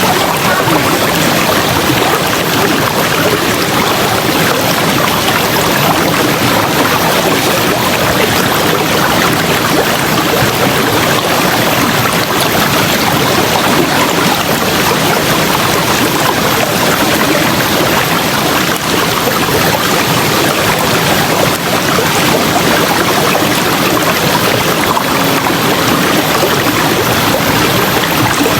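River water rushing and flowing as a steady, loud, unbroken noise.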